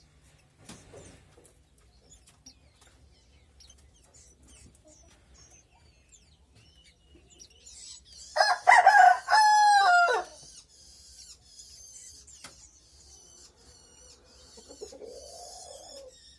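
A rooster crowing once, a loud call of about two seconds that falls in pitch at the end, about halfway through. Faint high chirping of small birds runs underneath.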